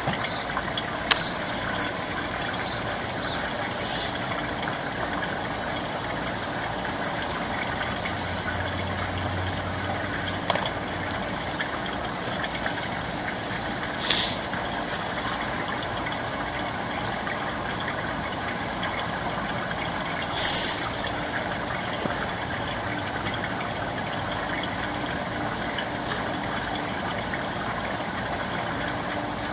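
An engine running steadily at idle, with a few short clicks and knocks over it.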